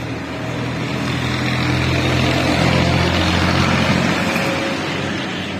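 A power tool's electric motor running steadily with a low hum and a rushing noise, getting louder toward the middle and easing off near the end.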